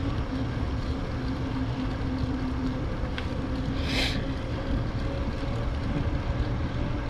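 Wind buffeting the microphone with a steady low rumble and hum from a bicycle riding along a paved road, and a brief hiss about four seconds in.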